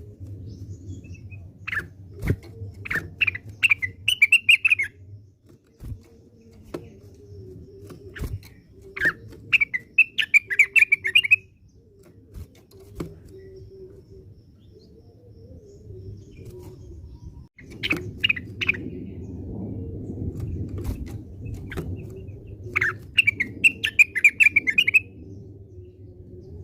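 Greater green leafbird (cucak wilis) singing: four bouts of quick, chattering notes of a few seconds each, over a steady low background hum.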